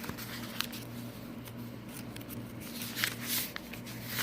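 Paper pages of a handmade junk journal being handled and turned, with short rustles and a louder paper swish about three seconds in, over a steady low hum.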